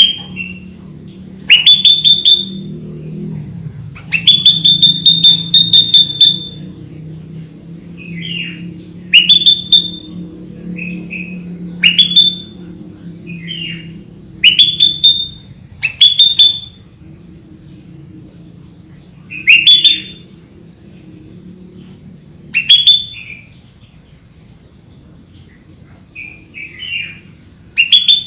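Sooty-headed bulbul (kutilang) singing loud, piercing whistled notes that sweep upward, one every second or two, one of them held for about two seconds. A steady low hum runs underneath.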